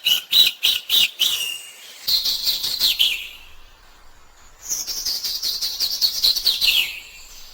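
A songbird singing. It starts with a quick run of high chirps, about five a second, then gives two fast trilled phrases, each falling in pitch at its end, with a short pause between them.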